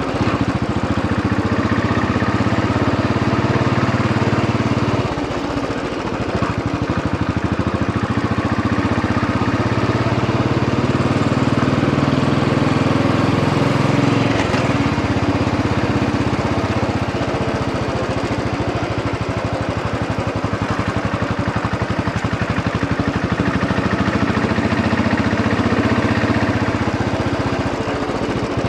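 Royal Enfield Bullet 500 EFI's single-cylinder engine running under way on a slow ride, heard from the rider's position. Its note changes about five seconds in and again near fourteen seconds, as the throttle or gear changes.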